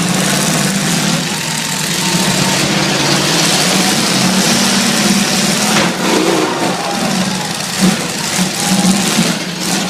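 Derby trucks' engines running and revving over a dense wash of noise, with a sharp hit about six seconds in and several louder bursts near the end.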